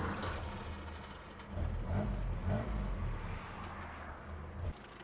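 Willys Jeep CJ-3A's 2.2-litre Go Devil four-cylinder petrol engine, just started with its foot-operated starter and running, low and steady. It grows louder about a second and a half in and breaks off shortly before the end.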